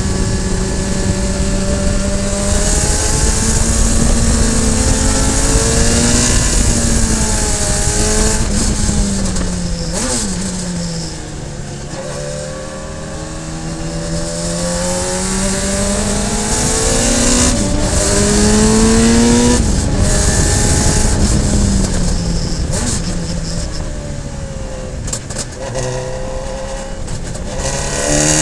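Radical SR3 race car's motorcycle-derived four-cylinder engine at racing revs, heard from on board. The revs climb in steps through the gears, drop away from about ten to thirteen seconds in as the car brakes into a corner, then climb again.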